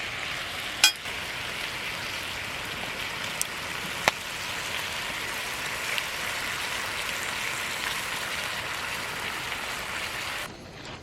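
Food sizzling steadily in a Uniflame 8-inch Dutch oven over a wood fire, with a couple of sharp pops. The sizzle cuts off suddenly near the end.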